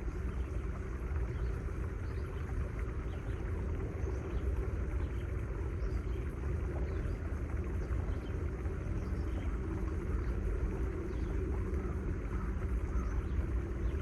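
Steady low rumble with a faint, even hum running through it.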